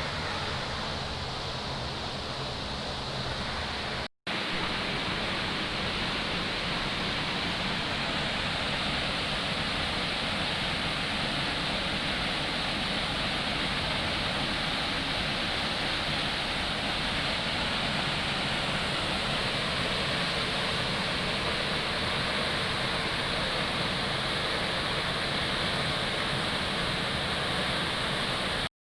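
Waterfall water rushing in a steady roar of white noise, broken by a split-second cut to silence about four seconds in.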